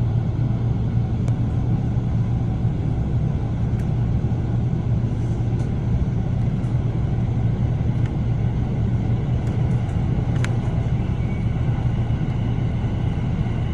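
EF64 electric locomotive running with a steady low rumble and hum, with a few faint ticks over it.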